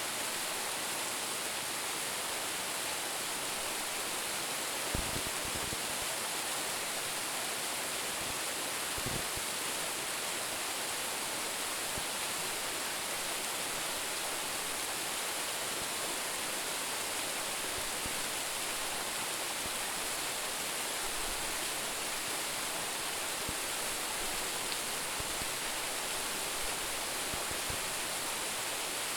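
A waterfall of about ten metres plunging into its pool, a steady hiss of falling water, with a couple of brief low bumps around five and nine seconds in.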